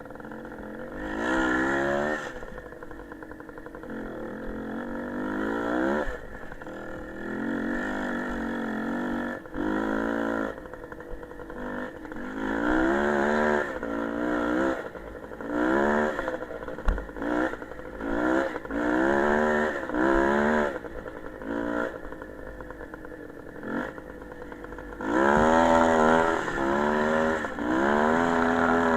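Small motorcycle engine revving up and down again and again, its pitch climbing and dropping with each twist of the throttle, with quieter stretches of lower running between the revs.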